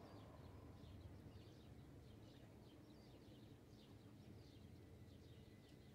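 Near silence: a faint low rumble of outdoor background with scattered faint, short bird chirps.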